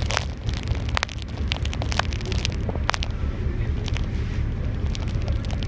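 Wind buffeting the microphone on a moving ferry: a steady low rumble with frequent sharp crackles.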